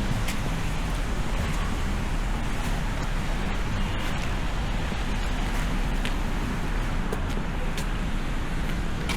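City street traffic noise: a steady wash of passing cars, with a few faint clicks.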